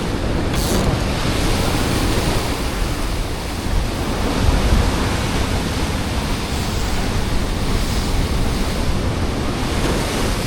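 Ocean swell surging and washing over a rock ledge: a steady rushing wash that swells louder about four to five seconds in, with low wind rumble on the microphone.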